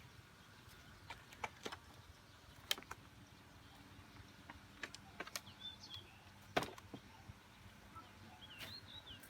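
Quiet outdoor ambience with scattered faint clicks and knocks, the loudest a little past halfway. A few short bird chirps come about halfway through and again near the end.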